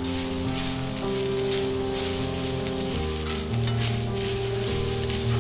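Grated coconut frying in coconut oil in a kadai, sizzling steadily while a spatula stirs and scrapes it around the pan. Soft background music with held notes plays underneath.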